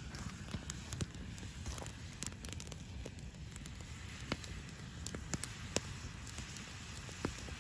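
Wood campfire crackling, with sharp irregular pops and snaps over a low steady rustle.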